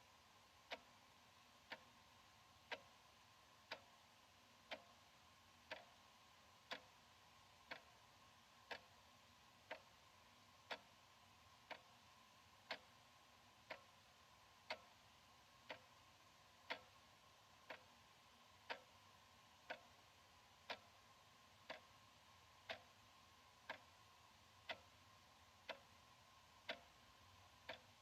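Analog wall clock ticking steadily, one sharp tick about every second.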